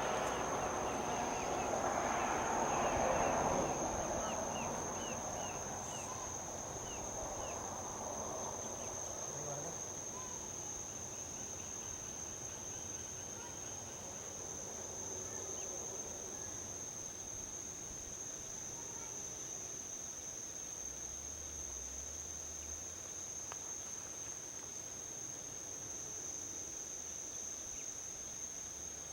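A steady high drone of crickets or other insects, with a vehicle passing on a highway that swells to a peak about three seconds in and fades away by about ten seconds.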